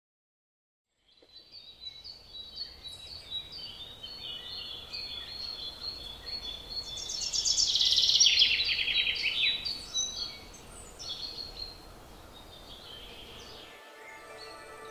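Many birds chirping and singing, beginning about a second in, with rapid trills that grow loudest around the middle. Music begins right at the end.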